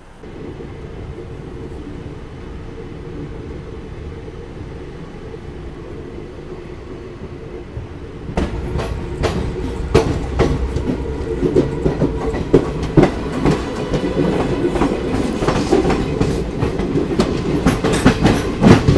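Passenger express train pulling out of a station, heard from the coach doorway: a steady low rumble as it starts moving. From about eight seconds in it grows louder, with the wheels clattering rapidly over the rail joints as it gathers speed.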